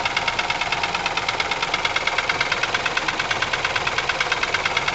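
Ford Ka 1.0 12-valve three-cylinder engine idling with a fast, even mechanical knocking. This is the engine noise behind its misfiring and lack of power.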